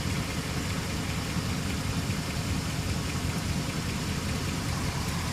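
2006 Jeep Commander's 4.7-litre SOHC V8 idling fully warmed up, a steady low engine sound. It carries a faint unidentified noise from under the engine toward the driver's side that the owner cannot yet place.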